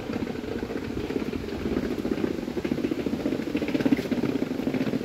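Berlin S-Bahn electric train approaching along the track, a steady low rumble growing slightly louder.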